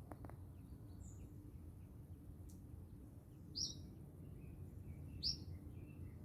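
Small birds chirping faintly: two sharp, high chirps about three and a half and five seconds in stand out over softer, scattered little chirps, with a low steady rumble underneath.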